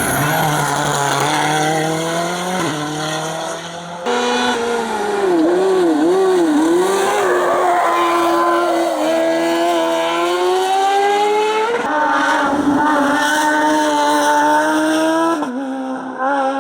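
Racing car engines at hard throttle, pitch climbing through each gear and dropping at every shift, with quick rises and falls of the revs around the middle. The sound changes abruptly a few times, as from one car to another.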